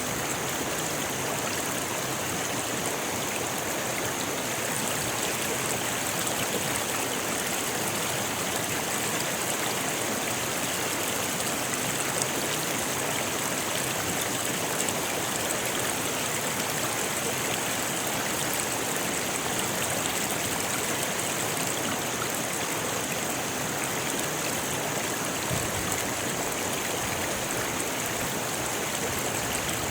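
Rocky river flowing, a steady rushing and splashing of water over stones.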